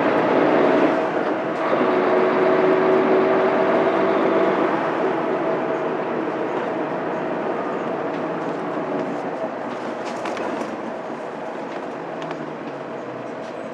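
Mitsubishi Fuso Aerostar city bus's 6M70 straight-six diesel and road noise heard from inside the cabin, with a steady engine hum under load for the first few seconds and a short break about a second in. The sound then fades gradually as the bus eases off and slows toward its stop.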